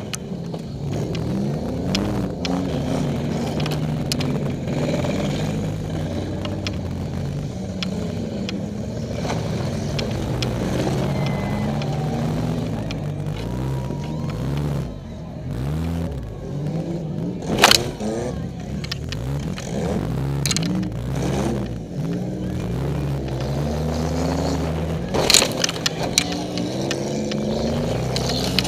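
Demolition derby car's engine revving up and down, heard from inside the cab, as the car manoeuvres. Two loud crashes of collisions with other cars, about 18 seconds in and again about 25 seconds in, with smaller knocks between.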